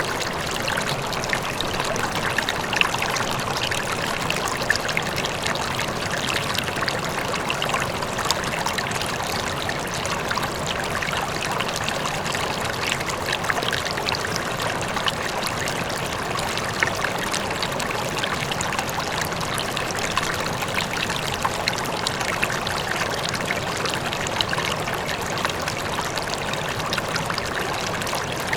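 River water flowing steadily, a continuous rush with small splashes scattered through it.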